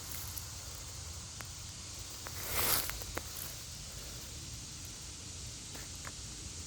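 Rustling and handling of a chicken-of-the-woods mushroom as a piece is broken off a log, with a few light snaps and one louder rasping tear about two and a half seconds in.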